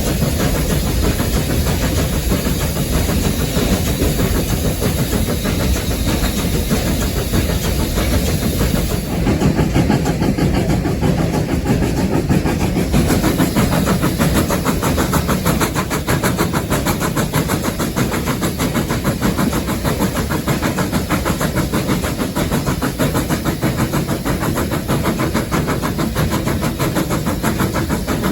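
Steam locomotive running under way, heard loud from inside the cab: a steady rumble with a fast, even beat of exhaust chuffs that comes through more sharply about nine seconds in.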